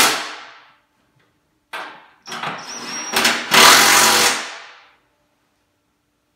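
Power drill driving Phillips head bolts into a motorcycle dolly's kickstand tray, run in short bursts: one dying away about half a second in, a brief one near two seconds, then a longer run of about two and a half seconds.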